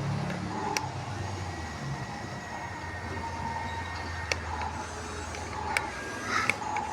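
Radio-controlled bulldozer's electric drive motors and gearing running with a steady whine and hum, with a few sharp clicks.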